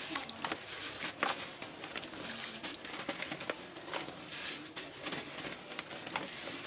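Dry dirt crumbling, a steady crackly rustle with many small scattered clicks.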